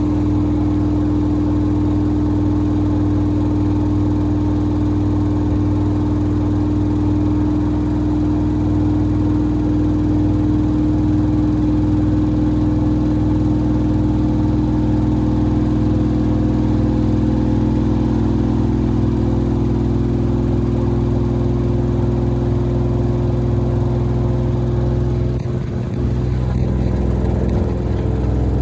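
Samsung WD70T4047CE front-loading washing machine spinning its drum at speed, with a steady motor whine and hum loaded with two pairs of sneakers. Its pitch dips and shifts slightly about 25 seconds in.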